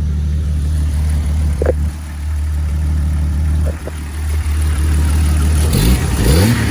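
Jeep engine idling steadily while it charges a flat battery through jumper cables, with a couple of light knocks. Near the end a second engine sound rises and falls in pitch.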